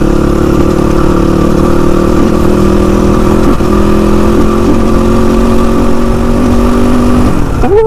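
Motorcycle engine running at a steady cruising speed under heavy low wind rumble, its note dipping briefly about three and a half seconds in.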